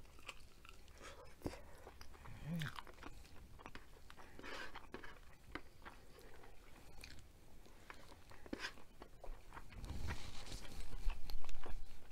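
Close-miked chewing of a piece of chicken curry, with many small mouth clicks; a louder, noisier stretch near the end.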